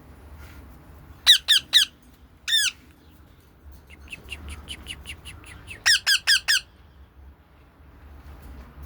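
Pet birds calling: loud, sharp, falling squawks in short groups of three and four, with a quick run of softer short chirps, about six a second, between them.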